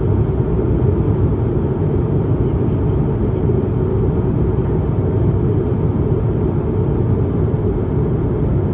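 Steady engine and airflow noise inside the cabin of an Airbus A220-300 in its climb: a dense, even low rumble from its Pratt & Whitney PW1500G geared turbofans, with a faint steady whine above it.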